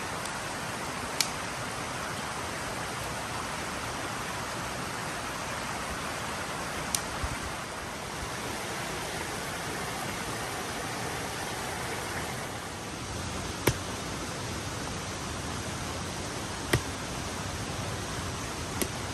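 A creek rushing steadily, a loud, even wash of water noise, with a few sharp clicks scattered through it.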